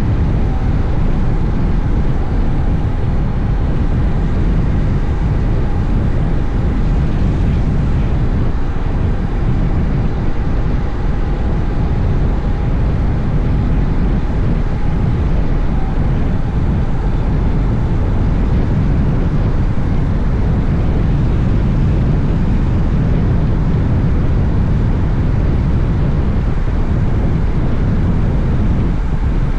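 Honda X-ADV's parallel-twin engine running at a steady cruise, under heavy wind rush on the onboard microphone, with no change in pace.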